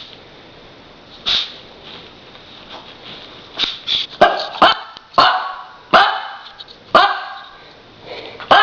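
Puppy barking: one short bark about a second in, then a run of short barks roughly one a second from a few seconds in, and one more near the end.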